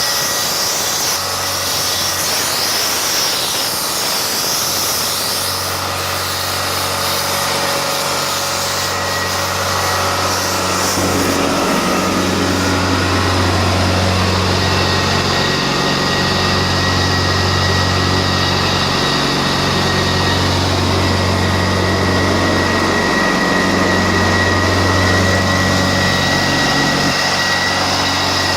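Prochem Performer truck-mount carpet cleaning machine running on its 24 hp Onan engine, a steady mechanical drone with a thin high whine. From about a third of the way in, a low hum cuts in and out in stretches of a few seconds.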